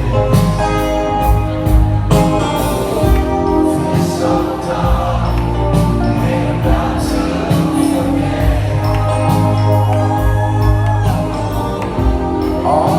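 Live band music with a steady drum beat and bass, as heard from the audience at a concert.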